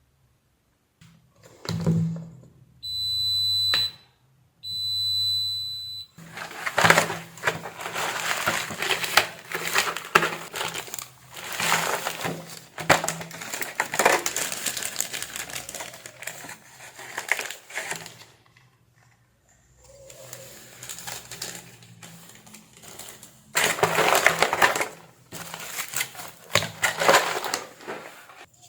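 Two high-pitched electronic beeps, each about a second long. They are followed by long stretches of irregular scraping and rustling noise from bench work on a circuit board.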